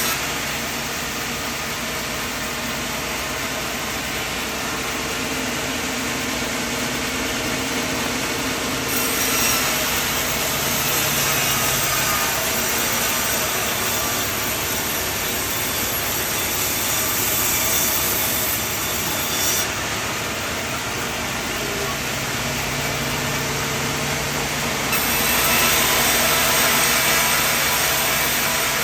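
Portable sawmill running and cutting through wood: a steady mechanical hum under the cutting noise, which turns louder and hissier about a third of the way in and again near the end.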